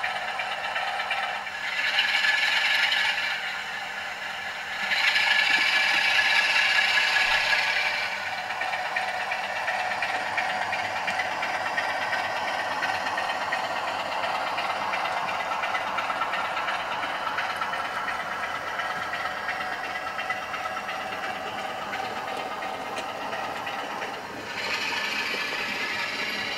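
OO gauge model trains running on the layout, their wheels rattling and clattering along the track, with no deep rumble. It swells louder about two seconds in, from about five to eight seconds, and again near the end, as a train passes close.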